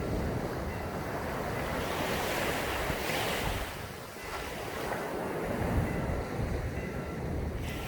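Sea waves breaking and washing up a sandy beach, one surge about three seconds in, with wind rumbling on the microphone.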